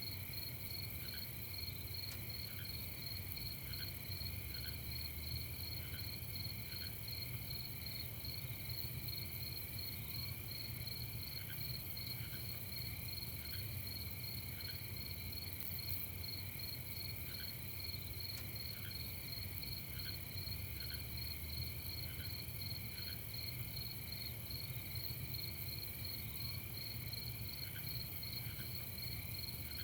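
Night chorus of crickets trilling steadily in several overlapping pitches. Beneath it a lower, softer chirp repeats in short runs of a few, over a faint low rumble.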